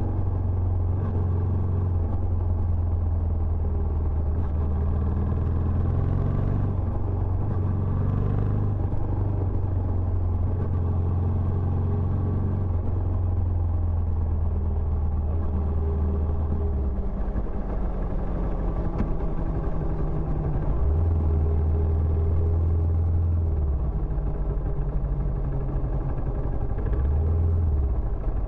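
Benelli Imperiale 400's single-cylinder engine running through its stock exhaust, a low steady thump whose note shifts a few times, about a third and about two-thirds of the way in.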